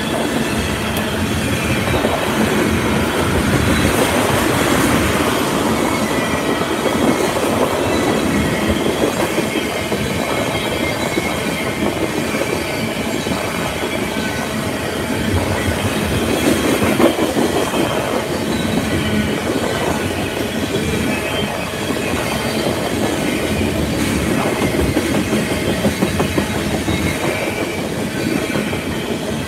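Freight train of tank cars and covered hopper cars rolling past at close range: a steady rumble of steel wheels on the rails, with faint high wheel squeal.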